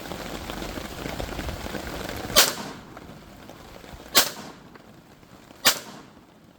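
Three pistol shots, about a second and a half to two seconds apart, each a sharp crack with a short ringing tail, over the hiss of falling rain.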